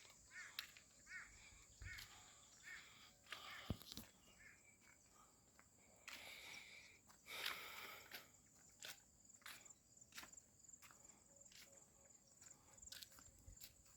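Faint footsteps of a person walking, a step roughly every half second to second, over a steady high-pitched hum in the background.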